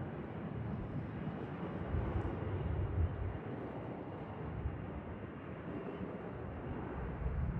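Steady engine noise of an aircraft taking off, even and without distinct tones, with low rumbles of wind on the microphone about two seconds in and again near the end.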